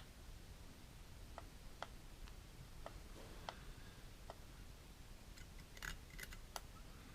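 Faint, irregular light clicks and taps, about a dozen, with a quick cluster of them near the end: small tools and metal parts being handled on a rebuildable tank's coil deck.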